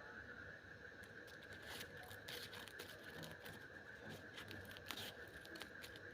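Faint, irregular clicks and snips of steel scissors being handled, over a steady high hum.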